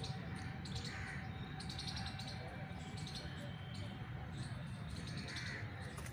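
Songbirds chirping in short scattered calls over a steady low background rumble.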